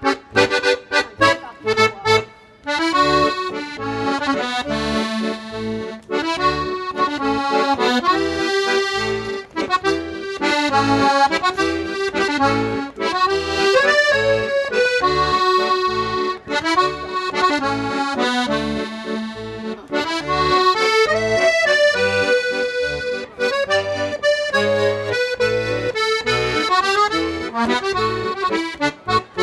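Accordion music: a sustained melody over chords, with a regular bass note pulsing underneath. It opens with a few short stabs before the tune settles in about two and a half seconds in.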